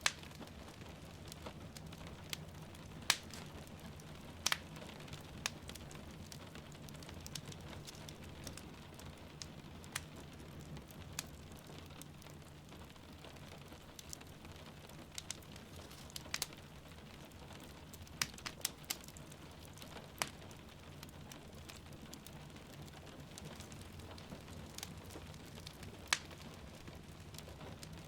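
Wood fire crackling in a fireplace, with irregular sharp pops and snaps over a steady soft rumble of rain.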